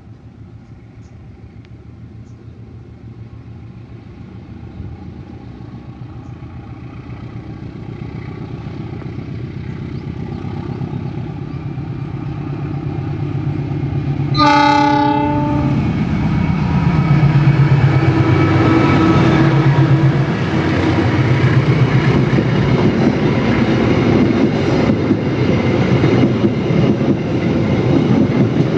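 CC201 diesel locomotive approaching, its engine hum growing steadily louder, then one short horn blast about halfway through. The locomotive and its coaches then pass close by, the diesel engine loud and the wheels clattering rhythmically over the rail joints.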